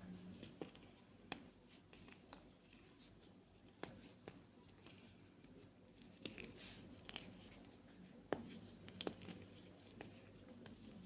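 White gym chalk being crushed: quiet, irregular crunches and crackles, with a sharper crack about eight seconds in.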